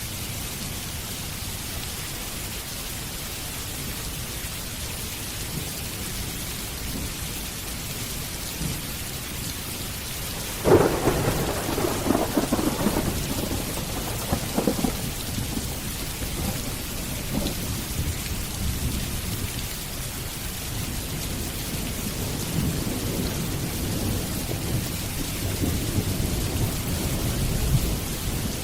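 Steady rain with thunder: a sharp thunderclap about eleven seconds in that rolls on for several seconds, then further low rolling rumbles of thunder later on.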